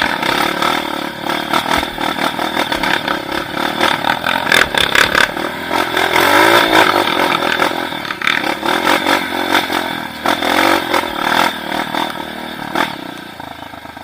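A vehicle engine running over rough ground, with rattling and clatter throughout and the pitch rising and falling about halfway through.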